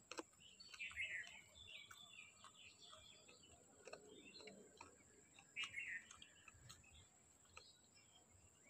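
Faint birds chirping in short clusters twice, with a few soft clicks and taps in between.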